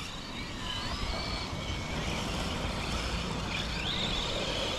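Electric RC monster trucks racing: thin, high motor whines that rise and fall over a steady rushing noise, building slowly in loudness.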